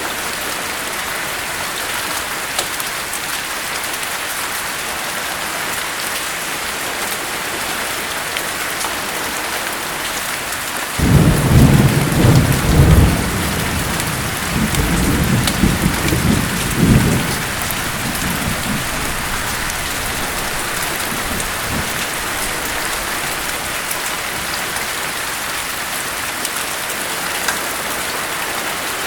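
Steady heavy rain hiss, with a roll of thunder that breaks in suddenly about a third of the way through, rumbles in two surges for several seconds and fades away.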